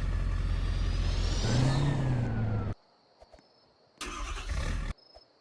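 Car engine running loud, its pitch rising as it revs about one and a half seconds in, then cut off abruptly. A shorter, quieter burst of similar noise follows near the end.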